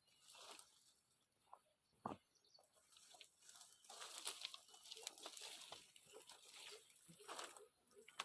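Faint rustling and crackling of leafy branches and twigs being handled, with one sharp snap about two seconds in.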